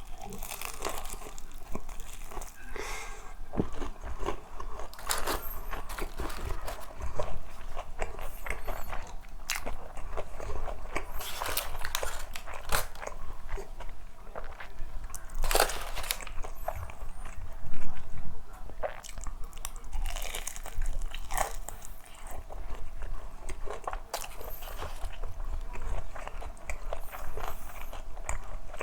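Close-up biting and chewing of crispy KFC fried chicken: irregular crunches and crackles of the fried coating, with wet chewing between them.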